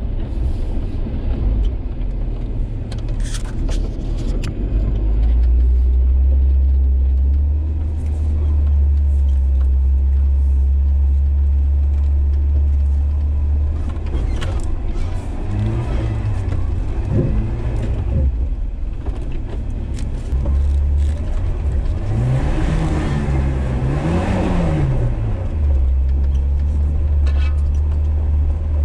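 A vehicle's engine heard from inside the cab while it drives slowly, with a steady low hum. It revs up and back down briefly past the middle, and again in a longer swell a few seconds later.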